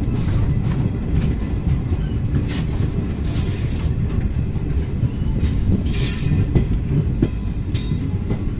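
Passenger express train rolling on the track: a heavy steady rumble with faint rail-joint clicks, and high-pitched wheel squeal rising twice, about three and about six seconds in.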